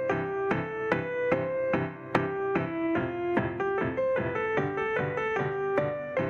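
Electronic keyboard with a piano sound playing a children's song, a melody over chords, notes struck in a steady beat about two or three a second.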